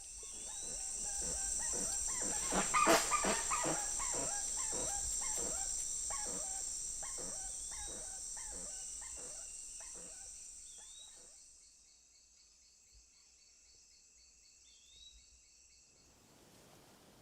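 Spix's guans giving alarm calls: a rapid series of short calls, loudest a few seconds in and dying away by about eleven seconds. A steady high insect drone runs under them and stops shortly after.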